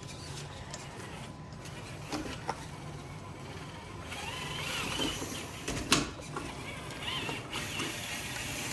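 Small electric motor of a Traxxas TRX-4 RC rock crawler whining as the truck strains, getting louder about four seconds in, with a sharp click about six seconds in.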